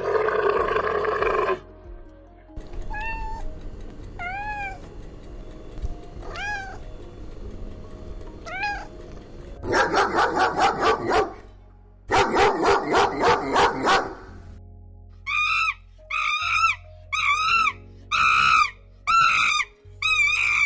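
A string of different animal calls: a camel's growl at the start, then a few faint rising squeaks, two bursts of rapid yapping, and finally about six short arched calls roughly one a second.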